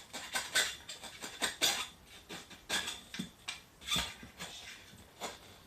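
Metal tyre levers clinking and scraping against a motorcycle wheel rim while an 18-inch motocross tyre is worked over it, in irregular clicks and scrapes with squeaks of rubber.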